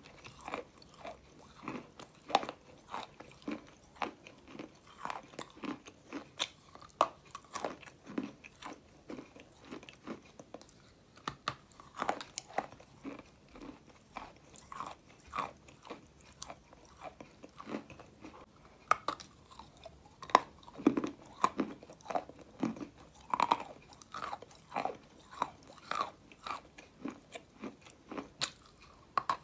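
A person biting and chewing a chunk of dry white clay close to the microphone: irregular crisp crunches and mouth clicks, several a second, with a brief lull partway through.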